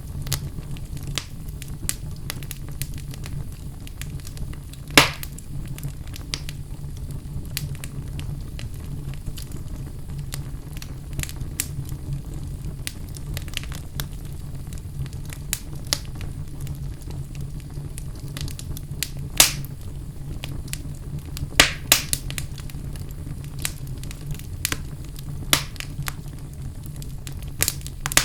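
Wood fire burning in a fireplace: irregular crackling over a steady low rumble, with a few louder pops, at about 5, 19 and 22 seconds in.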